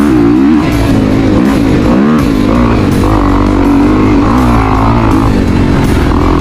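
Dirt bike engine running loud on a trail ride, its pitch rising and falling again and again as the throttle is blipped over rough ground.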